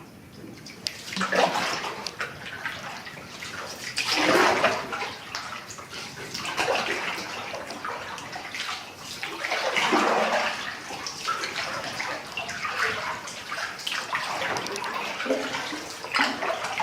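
Canoe paddle strokes through the water: a splashing surge about every three seconds.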